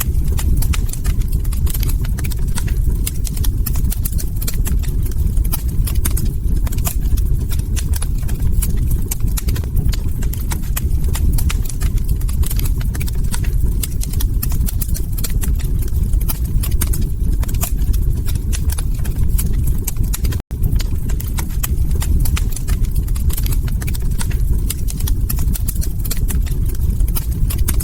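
Wood fire crackling: a dense run of small pops and snaps over a steady low rumble, with a momentary cut in the sound about twenty seconds in.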